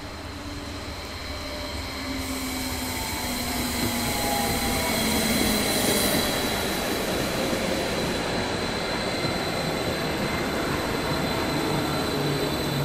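Electric multiple unit running into the station on the near track, getting louder over the first few seconds as it comes close, with a whine from the traction motors that glides in pitch. Steady rain hiss lies underneath.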